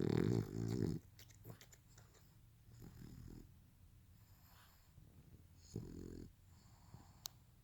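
French bulldog snoring: a loud, fluttering snore lasting about a second at the start, then two softer snores about three seconds apart.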